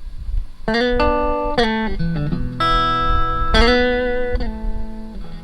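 Guitar music: sustained plucked chords, a new chord struck about every second, over a low rumble.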